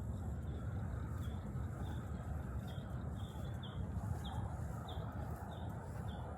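A bird repeating a short, high, falling note about twice a second, over steady low background noise.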